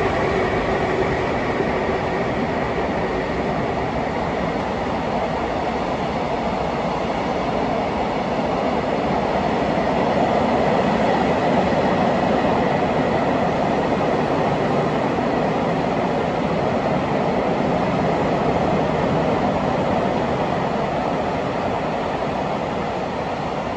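A freight train of container wagons rolls past on the rails with a steady rumble of wheels on track. Two faint tones fade out in the first couple of seconds, and the rumble eases slightly near the end as the last wagons go by.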